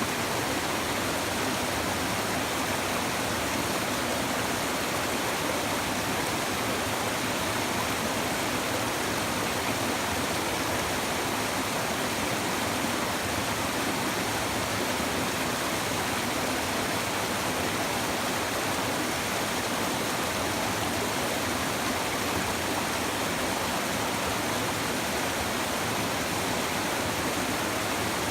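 A river running over stones, a steady even rush and babble of water.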